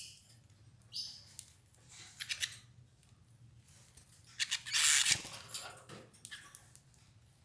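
Canaries pecking at and tearing escarole leaves in their cage: short crisp rustles and clicks, with a louder rustling burst about five seconds in.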